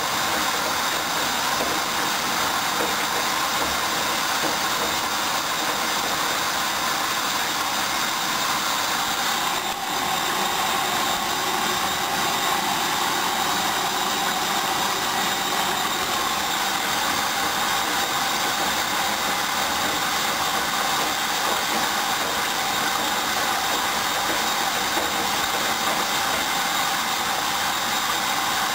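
Hoover DYN 10124DP washing machine running steadily at the start of its first rinse on the synthetics cycle, with a brief dip about ten seconds in.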